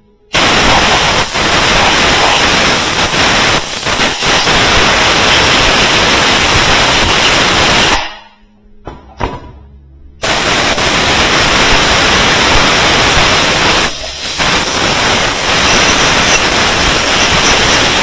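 A loud, steady spraying hiss that starts abruptly. It stops after about eight seconds and starts again two seconds later for about eight seconds more.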